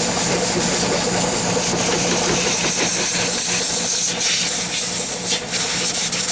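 Loud, steady hiss of a pressurized jet, cutting off suddenly at the end, over a steady low hum.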